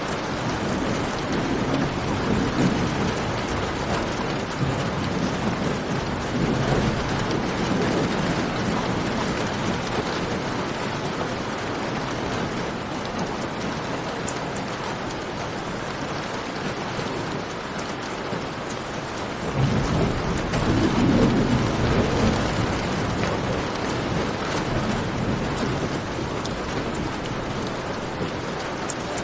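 Steady rain falling, mixed with the small pops and crackles of a campfire. A deep, low rumble swells over the first several seconds and again about twenty seconds in.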